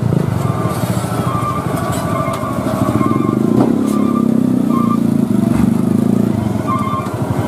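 Motor vehicle engine running with a steady low rumble, and short high-pitched tones repeating over it every second or so.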